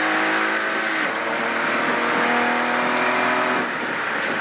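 In-car sound of a small 1-litre three-cylinder rally car engine pulling hard at high revs, with a hiss of tyre and road noise underneath. The engine note breaks briefly about a second in and again near the end.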